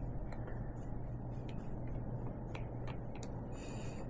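A few light clicks and taps of small metal bolts and parts being handled while thread locker is applied, over a steady low hum, with a short hissy rustle near the end.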